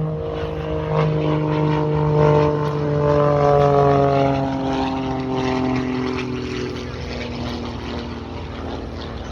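Propeller airplane flying past: its engine drone is loudest a few seconds in, then falls in pitch and fades as the aircraft moves away.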